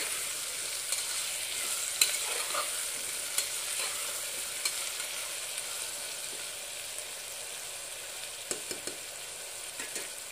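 Cauliflower, potato and onion sizzling steadily as they fry in oil in an open pressure cooker, with a metal spatula scraping and knocking against the pot now and then as the vegetables are stirred.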